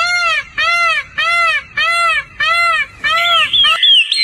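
A bird calling over and over, about six evenly spaced notes, each a clear tone that rises and falls. Near the end another bird takes over with quick, higher chirps.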